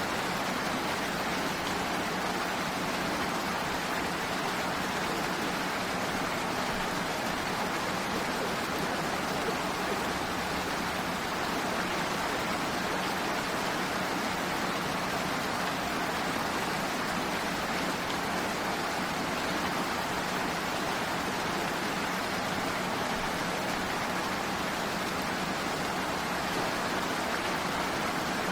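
Steady rain, an even hiss that does not change, with a faint low hum held under it.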